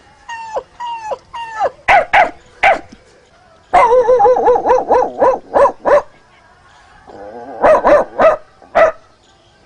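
A man imitating a dog with his voice: a few short yelps falling in pitch, then sharp barks, then a quick run of yapping barks about four to the second starting near four seconds in, and a last burst of barks near the end.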